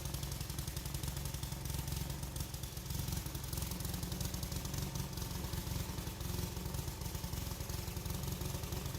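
A small engine running steadily with a fast, even pulse, without change.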